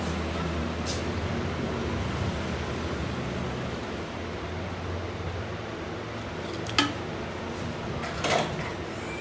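Steady low machine hum in a workshop, with a sharp metallic clink about seven seconds in and a short clatter of metal parts near the end.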